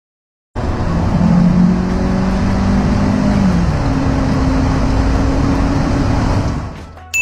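Car engine under hard acceleration during a 0–100 km/h run, starting abruptly about half a second in. Its pitch shifts about three seconds in, and it fades near the end.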